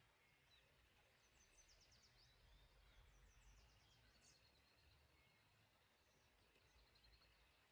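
Near silence with faint outdoor ambience: small birds twitter in quick high runs of chirps a few times over a low rumble.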